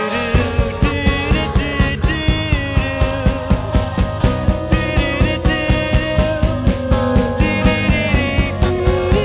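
Psychedelic rock band playing, with drums and bass coming in together right at the start. A steady beat of about three hits a second runs under a wavering melodic lead.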